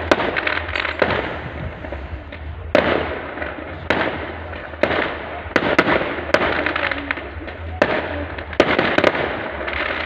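Fireworks going off: a string of sharp bangs at irregular intervals, about one a second, each trailing off into a noisy crackle.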